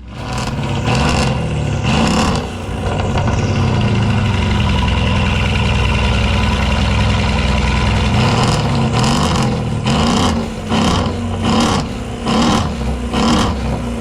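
A car engine running loudly and being revved, its pitch rising and falling, with a series of short sharp rev blips in the second half.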